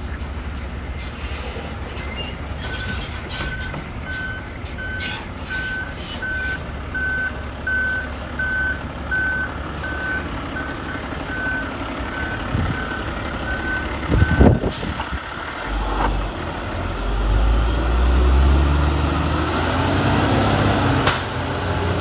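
Elgin Broom Bear sweeper truck running, with its backup alarm beeping about twice a second for roughly twelve seconds while it reverses. A loud sudden burst comes as the beeping stops. The engine then picks up, with a rising whine near the end.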